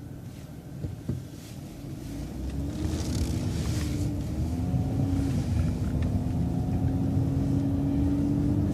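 MCO ViewMaster coach bus pulling away from a stop sign and accelerating through a right turn. The engine drone grows louder and rises in pitch about two and a half seconds in, then holds a steady note.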